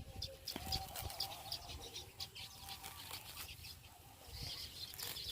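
Faint rustling and crackling as a dry grass sparrow nest is handled and pulled open, with small birds chirping faintly in the background.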